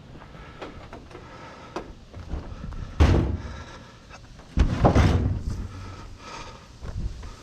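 Heavy bangs and clunks: one loud bang about three seconds in, and a longer run of them around five seconds, with lighter knocks in between.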